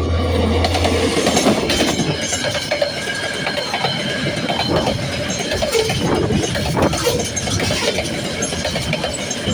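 A train passing over a level crossing, its wheels clattering over the rails and joints in a steady run of clicks and clanks. A low engine drone stops about a second in.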